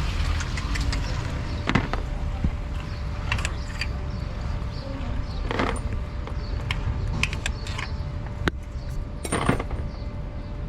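Steady low workshop rumble with scattered light metallic clicks and knocks, a few louder ones around the middle and near the end.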